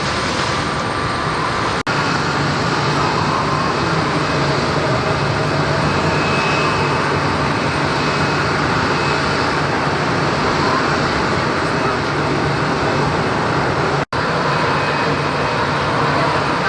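Jet airliner engines running at taxi power: a loud, steady rushing noise with a faint high whine. It drops out abruptly for an instant twice, about two seconds in and near the end.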